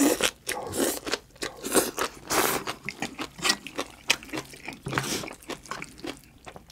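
Close-miked chewing of a mouthful of green onion kimchi (pa-kimchi): wet crunching and smacking in irregular bursts.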